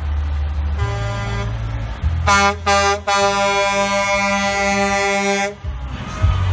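Truck air horn sounding two short blasts, then one long blast of about two and a half seconds, over a truck engine's steady low rumble.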